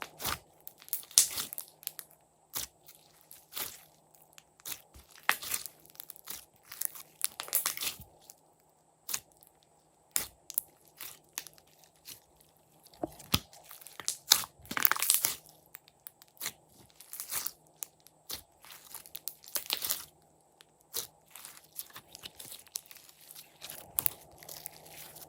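Glossy slime being kneaded and pressed by hand, with irregular sticky pops, clicks and crackles and a few louder crackling runs.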